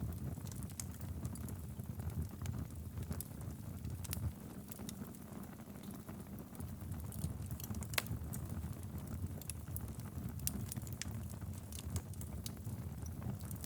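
Wood fire in a fireplace burning steadily: a low rumble of flame with irregular crackles and pops from the logs, one sharper pop about eight seconds in.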